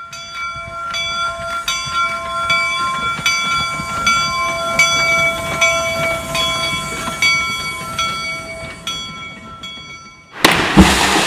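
Railway sound effect: a train running with a clicking rail rhythm while its whistle is held in a chord of several tones that swells and fades. Near the end, a sudden loud crash is followed by a rushing roar, the sound of the trestle giving way.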